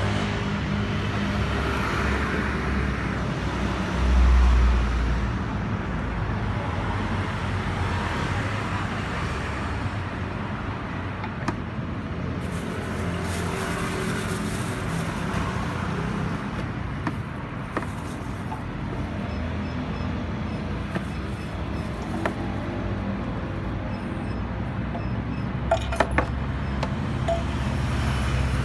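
KYMCO G3 scooter engine idling steadily, with the abnormal idle noise that the owner traces to a worn clutch. A heavy low thump comes about four seconds in, and a few sharp clicks near the end.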